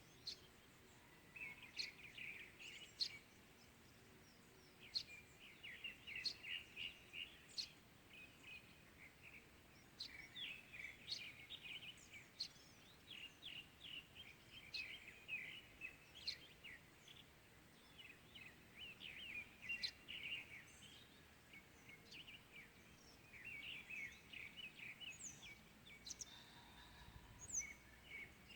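Morning birdsong: small birds chirping and twittering in clusters of quick, short, high notes that come again and again, faint over a steady background hiss.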